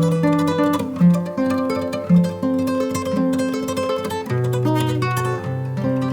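Instrumental music of plucked acoustic guitar: a melody of single held notes over a low bass line, changing every half second or so.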